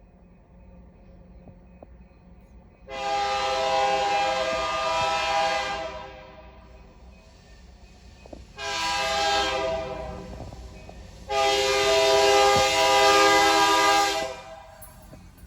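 Locomotive air horn sounding three blasts, long, short, long, each a chord of several notes, over a faint low rumble.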